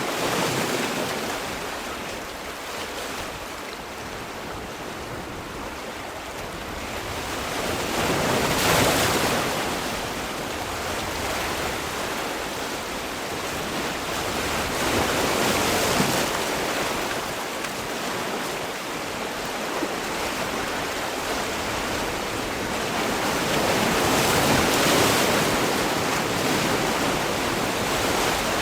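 Sea waves breaking and washing on the shore, a steady rush of surf that swells and eases, with peaks about a second in, around nine seconds, around fifteen seconds and around twenty-five seconds.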